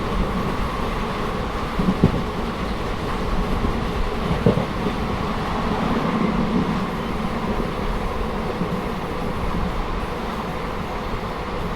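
Indian Railways passenger train running along the track: a steady rumble of wheels on rail, with two louder knocks, about two seconds in and again about four and a half seconds in.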